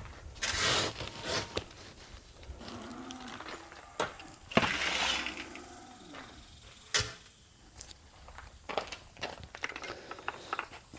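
Newly weaned steer calves mooing in a pen, a low call about three seconds in and another about five seconds in: the bellowing of calves just separated from their mothers. Two sharp knocks sound about four and seven seconds in.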